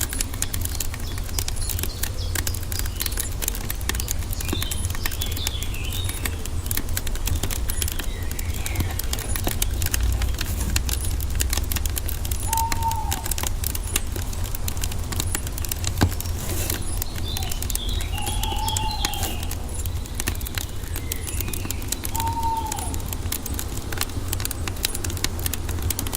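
Wood fire crackling with many small pops over a low steady rumble, with one sharper pop partway through. Birds call over it: a few short rising-and-falling whistles and some high twittering chirps.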